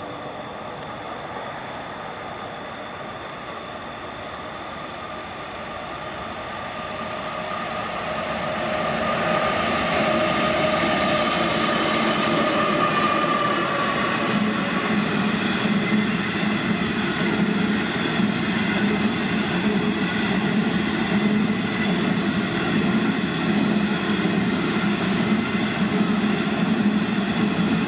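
A train approaching and passing close by, growing louder over the first ten seconds, with a steady engine tone that drops slightly in pitch as it goes past, then a long string of wagons rolling by steadily.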